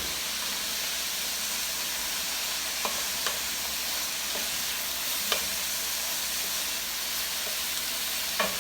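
Shredded cabbage frying in a hot pan with a steady sizzle, with a few light clicks as it is stirred.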